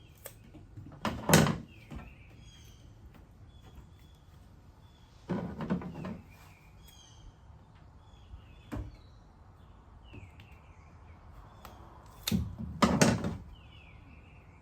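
Handling noise on a pickup's tailgate: three short bursts of rubbing and knocking, about a second, five seconds and twelve seconds in. Birds chirp faintly in the background.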